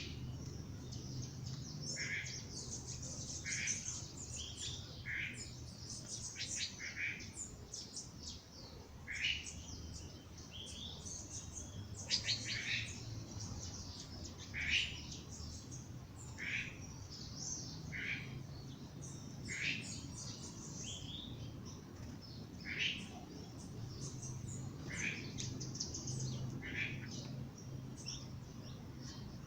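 Several songbirds chirping and singing in a dawn chorus: many short, high, downward-sweeping notes, one to three a second throughout, overlapping from different birds.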